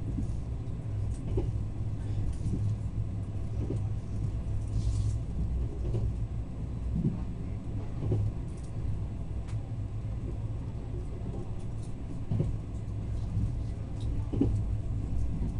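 Train running along the track, heard from inside the carriage: a steady low rumble with short knocks every second or so.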